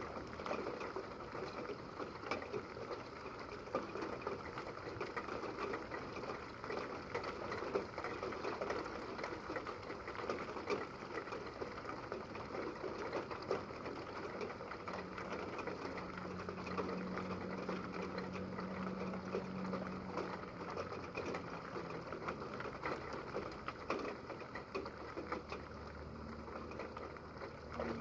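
Steady rain pattering, a dense crackle of small drops. A low steady hum comes in for several seconds around the middle.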